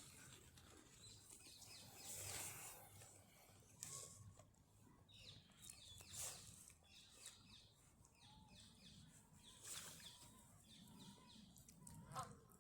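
Faint birdsong: small birds chirping in short repeated phrases, with a few brief soft brushing noises between them.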